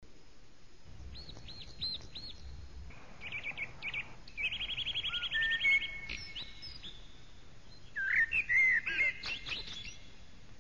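Songbird singing in separate phrases: four quick arched chirps, then a fast trill of repeated notes in the middle, and a burst of varied warbling notes a second or two before the end.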